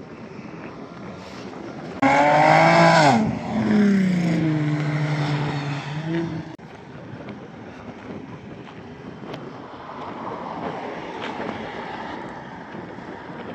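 A car engine comes in suddenly and loud, its note dropping steeply as the car goes past, then settles into a steadier engine note that cuts off suddenly after a few seconds. Before and after it there is only a faint outdoor hiss.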